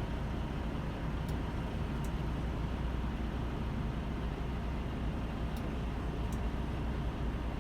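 Steady low rumble of a semi-truck, a constant drone with its weight at the very bottom and a few faint ticks over it.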